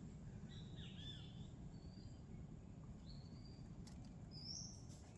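Wild birds calling: a few short, high whistled notes, the clearest near the end, over a faint low background rumble.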